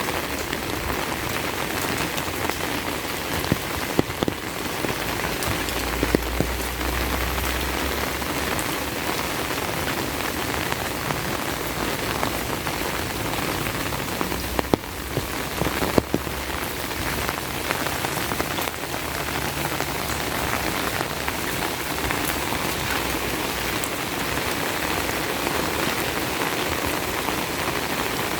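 Heavy rain falling steadily, with a few sharper, louder drops.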